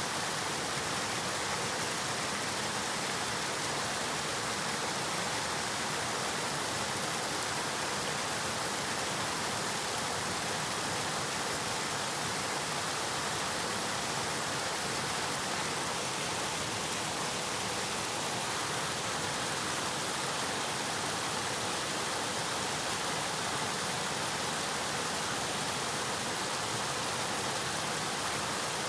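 River water flowing, a steady even rush that holds constant throughout.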